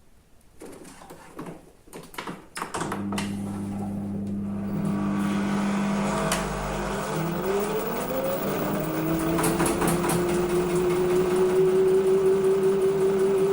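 Washing machine starting up: a few clicks, then a steady motor hum comes on about three seconds in. From about seven seconds a rising whine joins it as the drum speeds up, levelling off into a steady tone that grows louder near the end.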